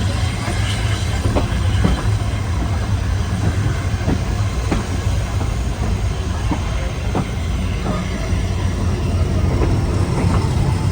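A passenger train running along the track with a steady low rumble, its wheels clicking irregularly over rail joints.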